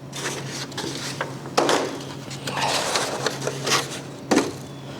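Spatula scraping under a label on a thin plastic seedling flat and the sticker being peeled off, with crackles of the plastic and a couple of sharp knocks as the tray is handled, over a steady low hum.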